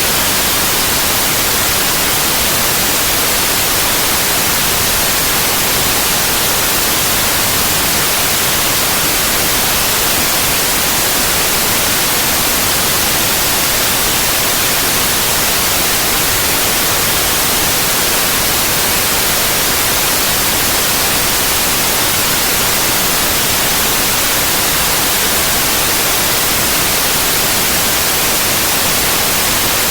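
White noise: a steady, even hiss with no changes, strongest in the high frequencies.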